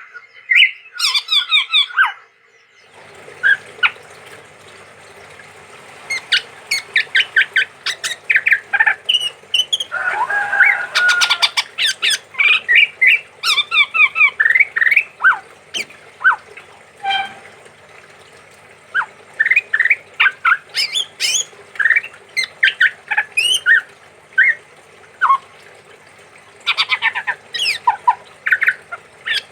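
Chestnut-rumped babbler (tepus tunggir merah) singing and calling in long, rapid runs of short, sharp chirps and harsh notes. A faint steady hum comes in under the calls about three seconds in.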